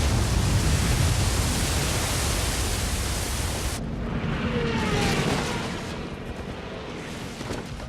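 A loud, steady rushing roar of noise, heaviest in the low end, that cuts off abruptly about four seconds in, leaving a fainter rush with a few brief sliding tones that dies away.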